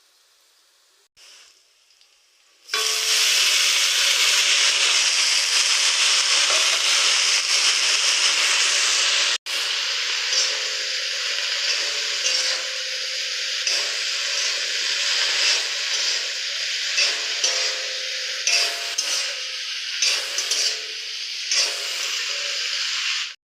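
Vegetables frying in hot oil in a pan: a loud, steady sizzle that starts abruptly a few seconds in. After a brief break about nine seconds in, the sizzling goes on with short louder spikes, then stops suddenly near the end.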